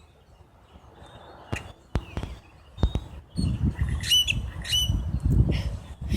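A bird squawks twice in quick succession, short harsh calls, about four seconds in. Before that come a few sharp knocks, and under the calls a low, uneven rustling and thumping.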